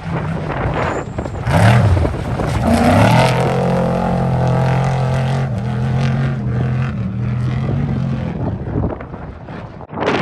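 Motor vehicle engine, rising in revs about two seconds in, then running at steady high revs for several seconds before fading out near the end.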